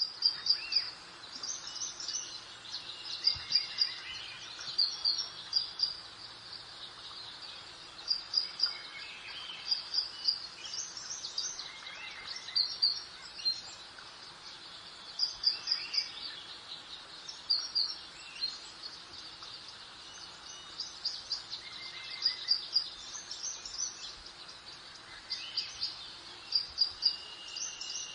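Garden birdsong: clusters of quick, high chirps repeating every second or two over a steady soft hiss of background ambience.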